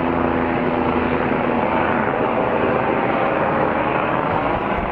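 Steady, loud engine drone of what the listeners take to be an airplane. A low hum under the noise fades out about a second and a half in.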